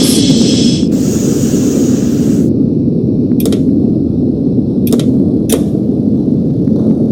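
Subway garbage work train running on the track with a steady low rumble. A brief hiss comes at the start and lasts about two and a half seconds, and three sharp clicks from the wheels and rails come about a second or so apart.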